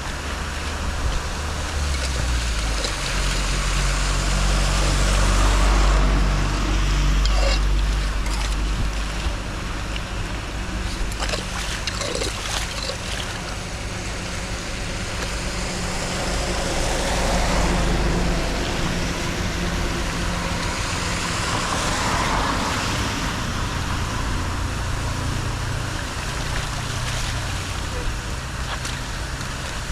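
Floodwater rushing and swirling into an unclogged street drain, a steady noisy wash that swells and eases, with wind rumbling on the microphone and a few knocks near the middle.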